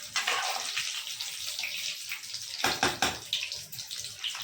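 Batter-coated chicken bondas deep-frying in hot oil, sizzling and crackling steadily while they brown, with a louder surge of crackling about three seconds in.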